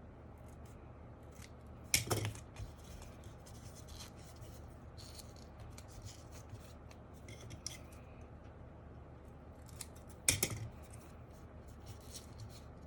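Scissors snipping twice, about 2 s in and again about 10 s in, with light scratching and rubbing of material being handled in between.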